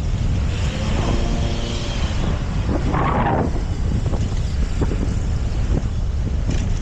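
Wind buffeting the microphone of a moving bicycle, a steady low rumble. A brief pitched hum comes in from about half a second to two seconds in, and a short rushing burst follows about three seconds in.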